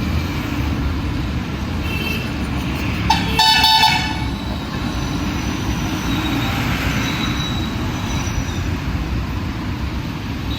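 Steady rumble of street traffic, with a vehicle horn honking once for about a second, roughly three seconds in, and fainter horns around it.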